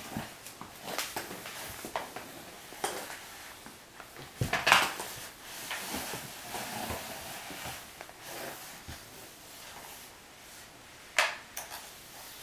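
Scattered knocks and clatters of things being handled and bumped, loudest about four and a half seconds in and again near the end, with no steady vacuum motor running.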